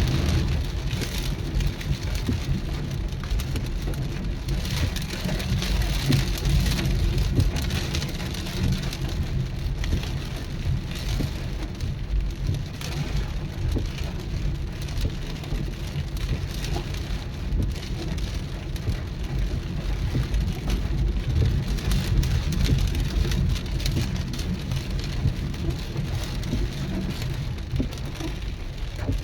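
Rain falling steadily with many small drop patters, and gusty wind rumbling on the microphone.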